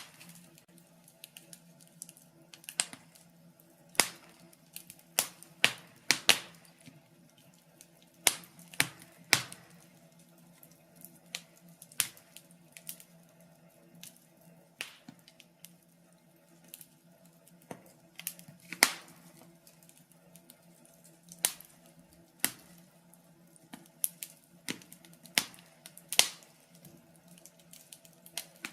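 Wood fire burning in a fireplace, crackling with irregular sharp pops, some much louder than others, over a steady low hum.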